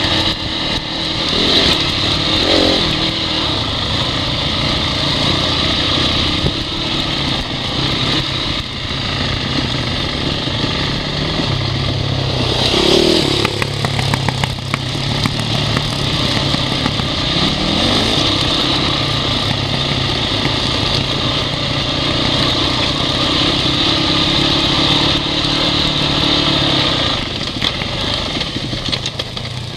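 Honda CRF dirt bike engine running continuously on a trail ride, its revs rising and falling several times as the throttle is worked.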